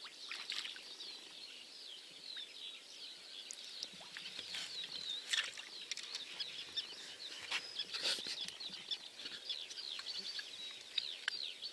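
Several birds singing and chirping, a steady stream of quick high notes, with a few sharp clicks scattered through.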